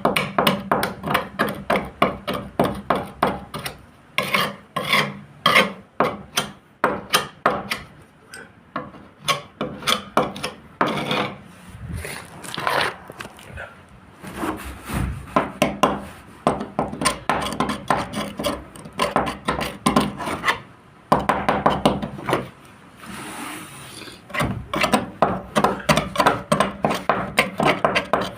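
Hand rubbing or sanding on a boat hull: quick back-and-forth strokes, about three to four a second, with a few brief pauses.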